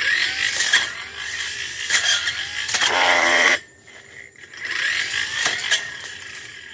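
Tanzu brush cutter revved up while cutting through undergrowth, in two loud bursts with a short drop back to idle about three and a half seconds in.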